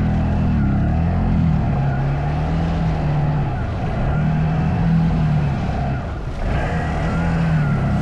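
CFMOTO ATV engine running under changing throttle, its pitch rising and falling repeatedly, with a brief dip about six seconds in.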